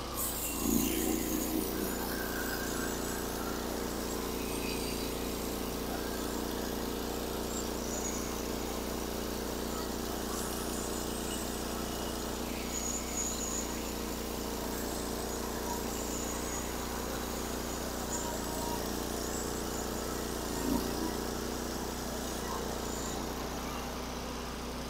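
Norwood HD36 portable band sawmill running steadily as its blade makes a first pass along a white oak log, only skimming the surface.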